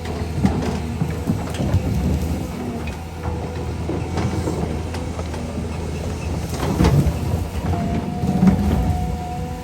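Heavy diesel machinery running steadily, with repeated metallic knocks and clanks over the engine. A steady higher whine starts near the end.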